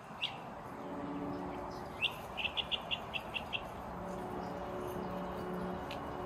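A songbird calling: a single high chirp, then about two seconds in another chirp followed by a quick run of about eight short repeated notes. A faint steady low hum runs underneath.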